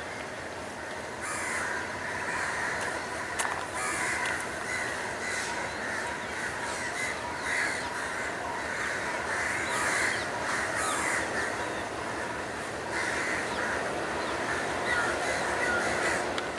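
Birds calling over and over, several short calls a second in irregular bunches, over a steady background noise.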